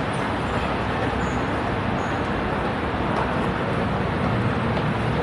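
Steady rushing noise of wind and road noise on a moving bicycle's camera microphone, with no distinct events.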